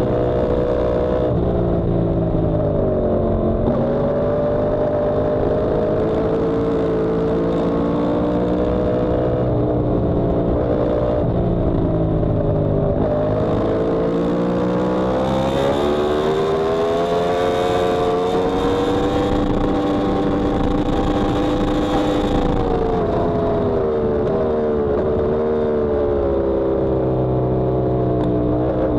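Yamaha R1M's crossplane inline-four engine heard onboard at a track day, its pitch climbing under acceleration and dropping on the brakes several times, with one long pull at high revs about halfway through. Wind rushes over the microphone at speed.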